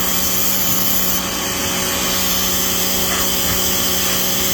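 Paxcess 2300 PSI electric pressure washer running, its motor and pump giving a steady hum under the hiss of the water spray.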